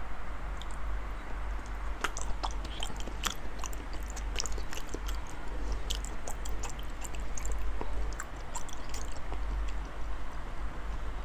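Wet smacking and chewing of a big mouthful of raw salmon, with many small lip and saliva clicks, over a steady low hum.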